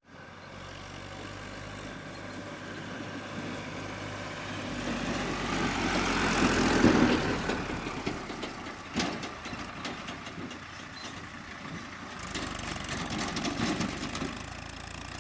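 Heavy diesel engine running steadily. It swells louder around the middle and eases back, with some mechanical clatter in the second half.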